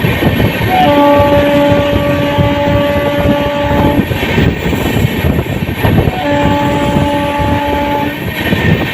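Electric locomotive's horn, on the WAP-7 hauling the train, sounding two long blasts, the first about three seconds and the second about two, over the steady rumble and clatter of the moving train.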